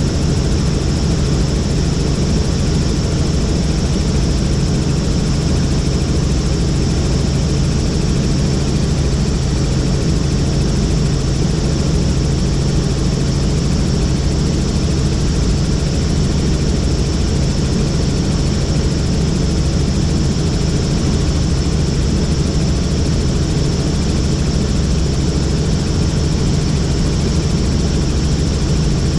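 Helicopter in flight: steady rotor and engine noise, heavy and low, with a constant high whine above it.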